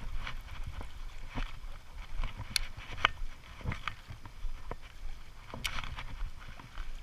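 Muffled low rumble with scattered clicks and knocks, heard through a GoPro's waterproof case as it is handled and carried in a creek; the sharpest knocks come about two and a half, three and nearly six seconds in.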